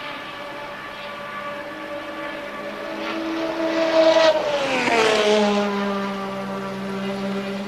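A 1983 Formula One car's engine at racing speed passing by: it grows louder to a peak about four seconds in, then its pitch drops sharply as it goes past and fades away at a lower steady note.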